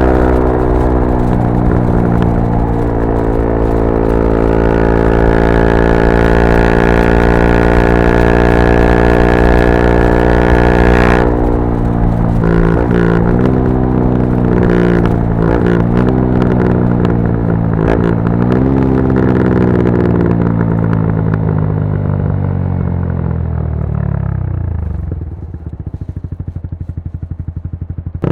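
Yamaha R125's 125 cc single-cylinder four-stroke engine through a straight-through Dominator GP exhaust, first held at steady revs under throttle. About eleven seconds in the throttle is shut, followed by several short rev blips as it slows. The revs then fall away and it settles into a pulsing idle near the end.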